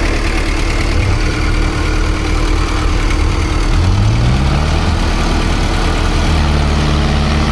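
Diesel tractor engine running steadily, with the revs rising about halfway through and then settling to a steady, higher note.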